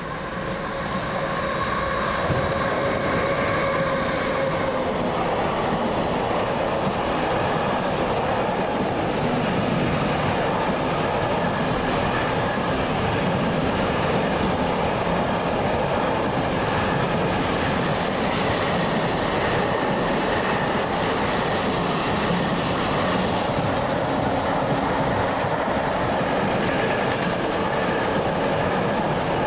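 A train passing close by through a station. The sound swells over the first two seconds, with a humming tone that dies away within the first few seconds. It then settles into a steady, loud rumble and clatter of wheels on the rails.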